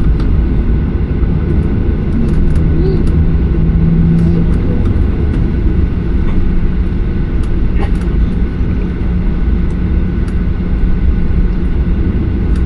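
Boeing 737-800 cabin noise at a forward economy window seat: a loud, steady low rumble from the CFM56 engines and airflow, with a steady low hum coming in about two seconds in.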